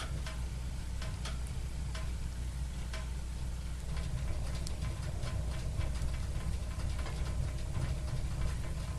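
Wood fire in a fireplace crackling, with sharp pops that come more often after about four seconds, over a steady low rumble.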